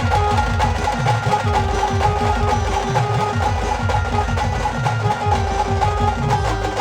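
Live band playing an instrumental passage: a steady, dense drum beat under held melody notes, with no singing.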